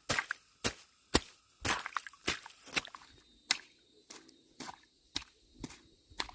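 A steady series of short, sharp strikes, about two a second, louder in the first half and fainter later.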